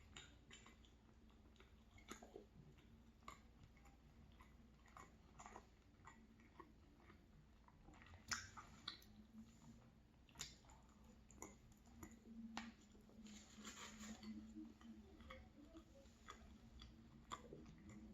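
Faint close-miked chewing of an egg-and-sausage bagel: irregular soft mouth clicks and smacks, with a few sharper clicks about eight, ten and twelve seconds in.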